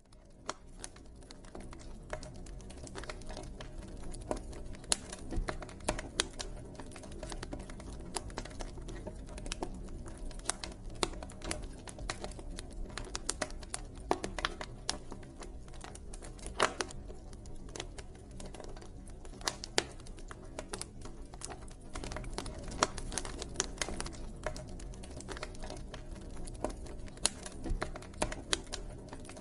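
Campfire burning with dense, irregular crackles and sharp pops of burning wood over a low rumble of flame. It fades in over the first second or two.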